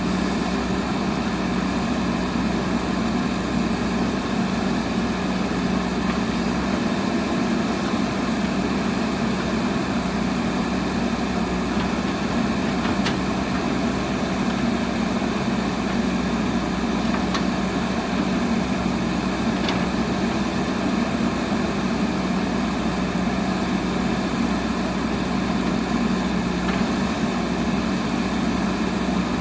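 Backhoe loader's diesel engine running steadily at a constant pitch and level, with a few faint ticks now and then.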